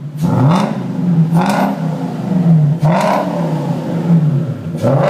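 Supercharged Lexus GS430's 4.3-litre V8 revved in four quick throttle blips, its exhaust note rising and falling with each one, heard through OBX headers, an X-pipe, Aero resonators and Aero Turbine mufflers.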